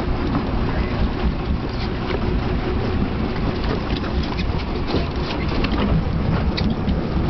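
Steady wind and water noise aboard a boat at sea, buffeting the microphone as a low rumble, with scattered small clicks.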